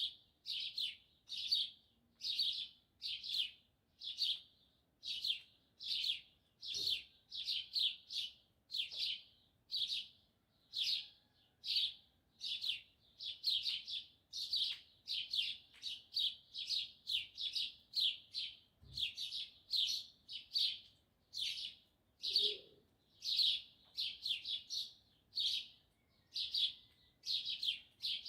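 Small songbirds chirping: an unbroken run of short, high chirps, nearly two a second.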